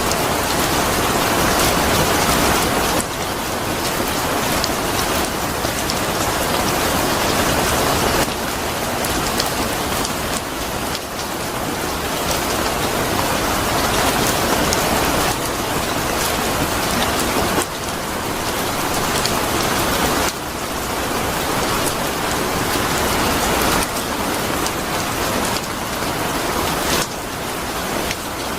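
Steady rain falling on a surface: a dense, even hiss of many drops. The level shifts suddenly by a few decibels every few seconds.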